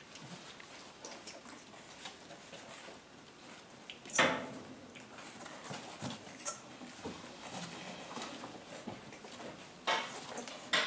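French bulldog puppies moving about and playing on a hard floor: a light patter of small clicks and scuffles, with a loud sudden knock about four seconds in and two sharper knocks near the end.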